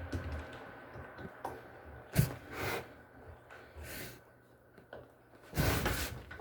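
Handling noises: a sharp knock about two seconds in, a few lighter knocks, and a half-second scraping rush near the end, over a faint steady tone.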